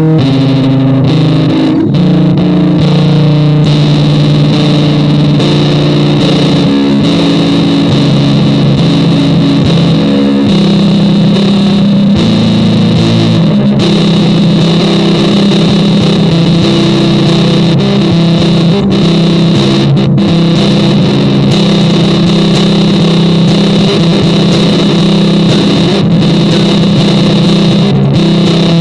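Music: distorted electric guitar through effects, playing sustained droning notes that shift every few seconds in the first half, then hold steady.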